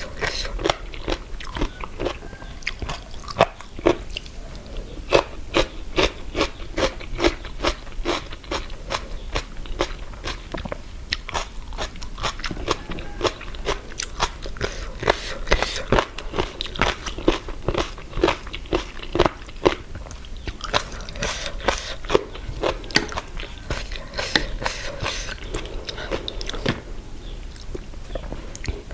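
Close-up crisp crunching and chewing of a spicy pickled-seafood salad with crunchy pickled jellyfish. The crunches come about twice a second.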